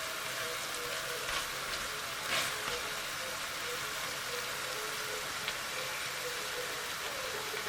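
Food frying in hot oil in a pan, a steady sizzling hiss with a few brief clicks.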